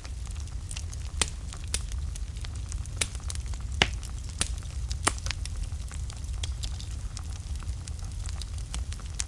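Wood fire burning in a fireplace: a steady low rumble of flames with irregular sharp crackles and pops from the burning logs, a few louder pops among them.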